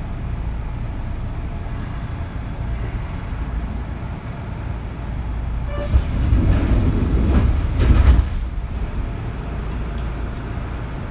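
Kintetsu 3200 series electric train running, heard from inside motor car Mo 3205: a steady low rumble of wheels on rail. About six seconds in, it swells into a louder rushing clatter that lasts about two seconds, then settles back.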